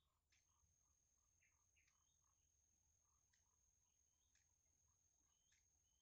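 Near silence: a faint, steady high-pitched tone, with faint short bird chirps scattered through it.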